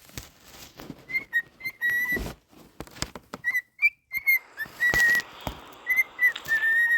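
Pet bird whistling a string of short, clear notes at much the same pitch, some bending slightly up or down, with sharp clicks and taps in between; the last note is held longer and drops away at the end.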